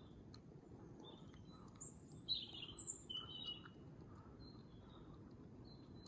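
Small songbird chirping faintly: a quick run of short, high, thin calls about a second in, then a few scattered chirps, over a faint steady forest hiss.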